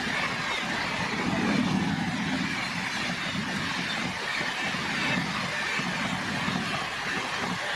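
A train passing at speed: a steady rumble of wheels on rail that swells and eases every second or two.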